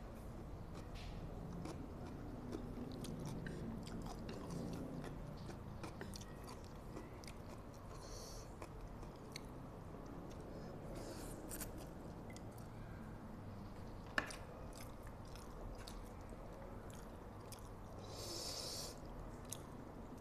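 Close-miked chewing of spicy instant fried noodles, with small wet mouth clicks throughout. Two slurps of about a second each come as noodles are drawn in, about eight seconds in and near the end. A single sharp click comes about fourteen seconds in.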